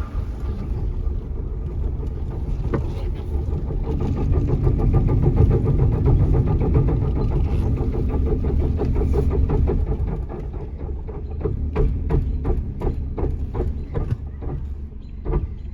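Junk Toyota Corolla with a failing transmission, its drivetrain rumbling low and rough. From about two-thirds of the way through comes a run of irregular clicks and knocks.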